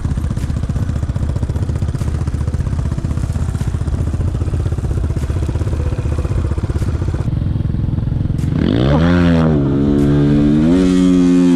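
Enduro motorcycle engine running at low revs with an even rapid pulse. About eight and a half seconds in, it revs up and holds high, then rises a step further near the end.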